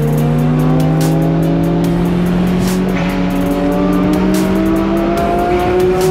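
2005 Mazdaspeed MX-5's turbocharged 1.8-litre four-cylinder engine pulling hard on track, its pitch rising slowly and steadily through a gear over a steady low drone.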